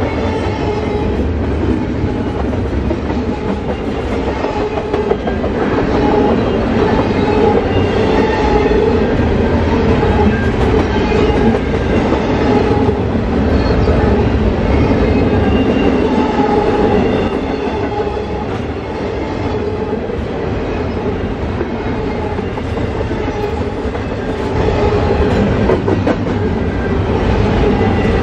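Double-stack intermodal freight train's container well cars rolling past, their steel wheels clattering over the rails with a steady rumble.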